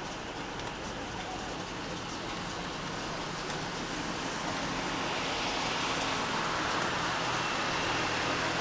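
Steady rain, with a vehicle approaching on the wet road: a tyre hiss and low engine hum that grow slowly louder.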